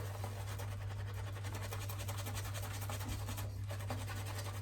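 A shaving brush being worked around in shaving cream to build a lather: a continuous fine scratching and swishing of the bristles, over a steady low hum.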